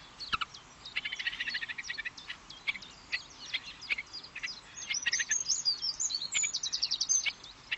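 Songbirds chirping and singing: many short high calls with quick rattling trills of repeated notes, the busiest stretch in the second half.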